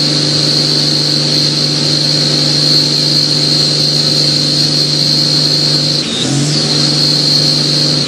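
1993 Dodge Ram 350 pickup's engine held at high revs in a burnout, its rear tyres spinning with a high steady squeal. About six seconds in the revs dip briefly and climb straight back.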